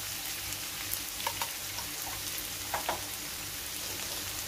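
Chickpeas, meat and peppers sizzling steadily in a frying pan, with a few short crackles a little past the middle.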